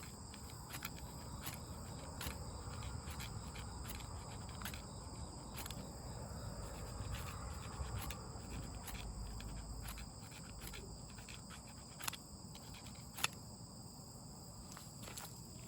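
Steady high chirring of insects in several pitches, with scattered small clicks and two louder sharp snaps about twelve and thirteen seconds in.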